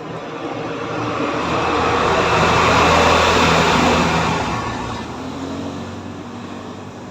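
A motor vehicle passing close by: its engine and road noise rise to a peak about three seconds in, then fade away.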